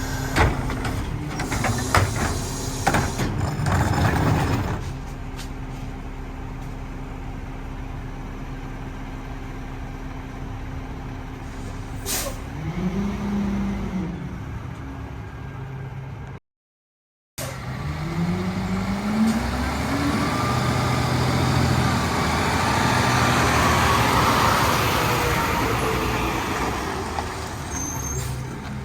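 Peterbilt 520 rear-loader garbage truck at work: clattering and knocking for the first few seconds, then the engine running steadily with a short air hiss and a brief rise and fall in pitch. After a short break the engine climbs in pitch as the truck pulls off, and the noise swells as it goes by.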